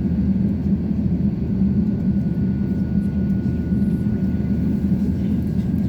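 Cabin noise of an Airbus A350-900 taxiing: the Rolls-Royce Trent XWB engines and airframe give a steady low rumble, with a thin steady high tone above it.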